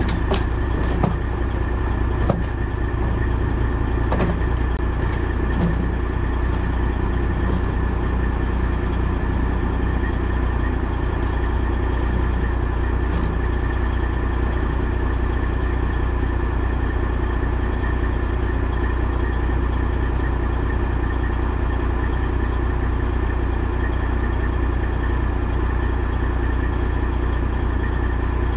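Semi truck's diesel engine running steadily, a constant low drone with a faint high whine above it, and a few light clicks and knocks in the first few seconds.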